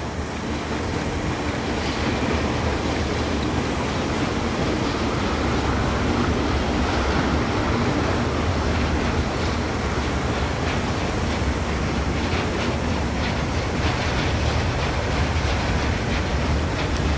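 Two DX-class diesel-electric locomotives hauling a freight train past, with a steady deep engine drone that swells over the first couple of seconds. The wagons follow, rolling by with wheels clicking over the rail joints in the later seconds.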